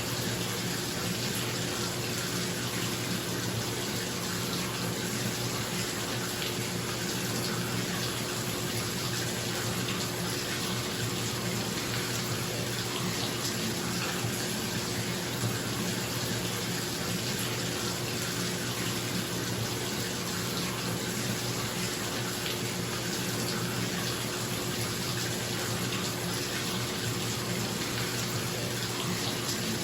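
Bathtub filling from a running tap, water pouring steadily into the tub, with a bathroom exhaust fan humming underneath.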